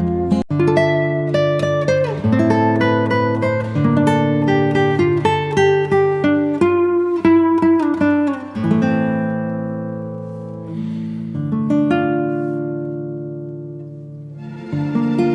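Background music of plucked acoustic guitar. A brief dip about half a second in, then a run of held notes that slowly fade before the playing picks up again near the end.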